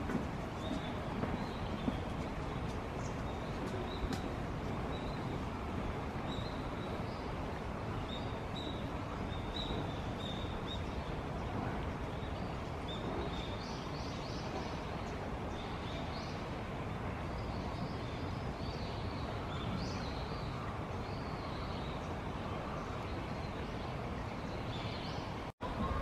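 Steady outdoor background noise with short, high bird chirps scattered throughout. The sound cuts out for a moment near the end.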